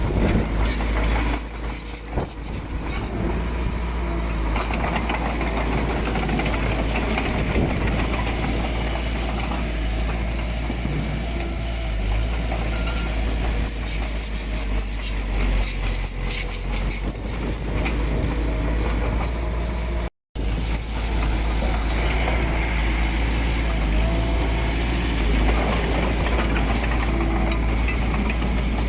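Komatsu D20P crawler bulldozer's diesel engine running steadily under work, with intermittent knocks and rattles. The sound drops out for an instant about twenty seconds in.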